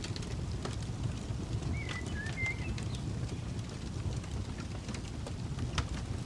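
Campfire crackling, with scattered sharp pops over a low steady rumble. A short bird chirp comes about two seconds in.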